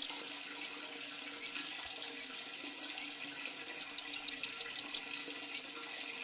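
Lovebird giving short, sharp rising chirps (the 'ngetik' ticking call): single chirps about once a second, a quick run of about seven in a row in the middle, then one more. A steady hiss runs underneath.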